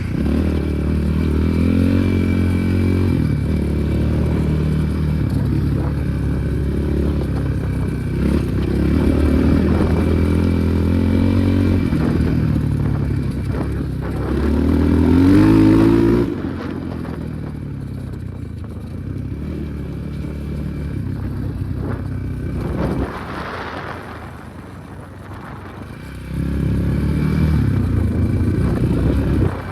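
Enduro motorcycle engine revving up and down as it is ridden. The revs climb to their loudest about halfway through, then drop off sharply, and the engine runs quieter before picking up again near the end.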